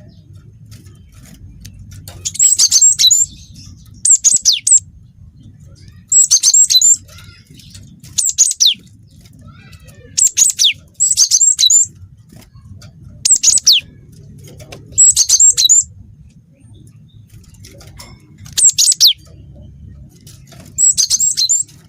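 Cinereous tit (gelatik batu) singing in short, loud bursts of rapid high phrases with quick falling whistles, about one burst every two seconds; its song is filled with canary phrases it has learned. A faint low hum runs underneath.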